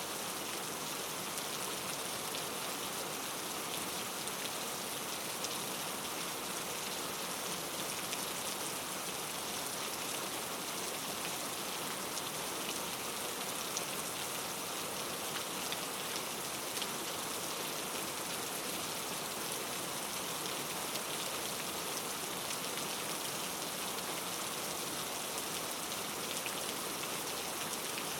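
Steady rain falling on a surface, an even hiss with fine patter of individual drops and no thunder.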